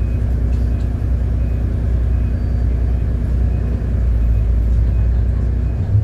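City bus engine running steadily with a low rumble, heard from inside the bus, with a faint short beep repeating about every three-quarters of a second.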